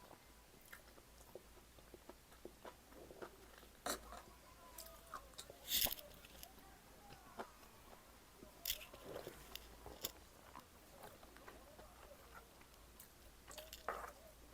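Close-up eating sounds: a person chewing and biting food, faint, with a few sharper crunches and clicks scattered through.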